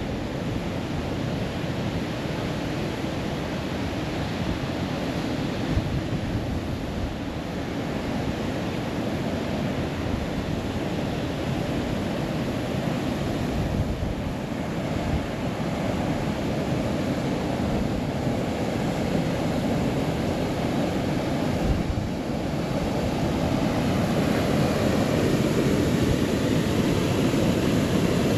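Steady outdoor rushing noise of wind on the microphone and flowing river water, growing a little louder near the end.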